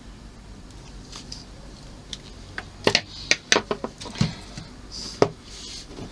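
Small hard model-kit parts clicking and tapping as they are handled and fitted: a quick run of sharp clicks about three seconds in, then single clicks about a second and two seconds later.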